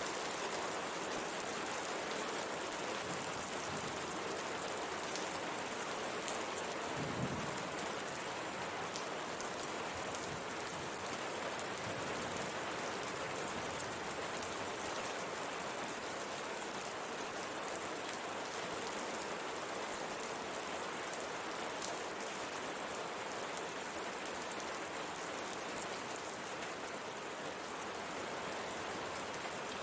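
Steady rain pattering on a window pane, an even hiss of many fine drop ticks. A single brief low thump sounds about a quarter of the way through.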